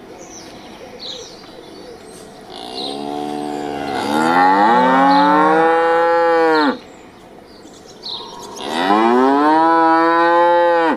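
Cow mooing twice: a long moo that rises in pitch at its start and lasts about four seconds, then a second long moo starting about eight seconds in that is cut off at the end.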